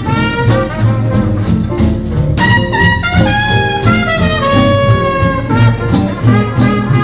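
Live hot-jazz band playing an instrumental swing chorus: a brass lead, likely cornet or trumpet, plays held and bending notes over a steady rhythm section beat.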